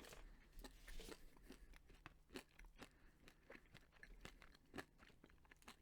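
Faint crunching as a milk chocolate bar with crunchy caramel bits is chewed, a scatter of small irregular crunches.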